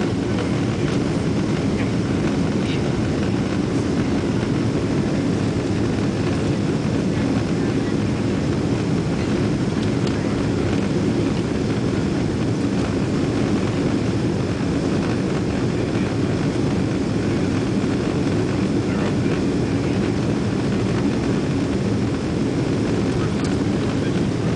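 Steady jet engine and airflow noise heard inside the passenger cabin of a Boeing 777-200, a low, even roar that does not change.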